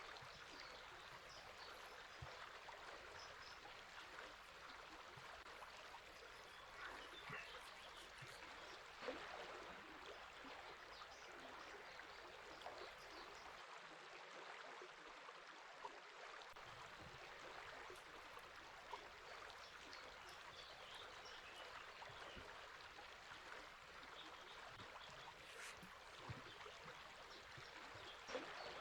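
River water flowing steadily with a soft rushing, with faint bird calls now and then above it.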